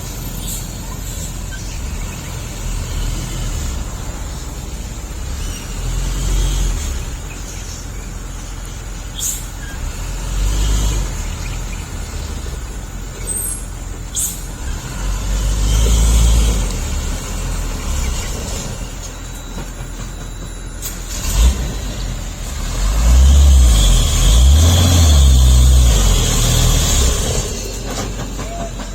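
Truck engine running under load, its low rumble swelling louder several times and loudest for a few seconds near the end.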